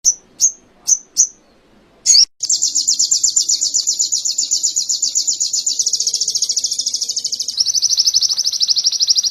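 Small songbird singing canary-style song: four short, high chirps, then a long, very fast rolling trill of a dozen or more notes a second that shifts pitch twice.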